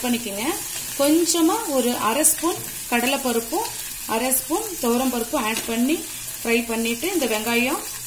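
Small onions and garlic cloves sizzling in oil in an aluminium kadai, with a steel ladle stirring and scraping against the pan. Over it, a pitched, voice-like sound rises and falls in short phrases.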